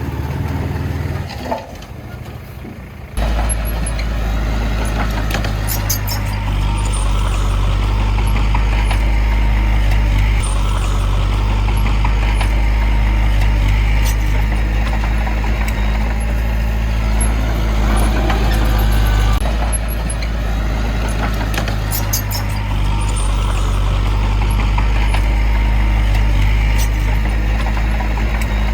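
Diesel engine of heavy earthmoving machinery running steadily. It comes in loudly about three seconds in, after a short quieter stretch.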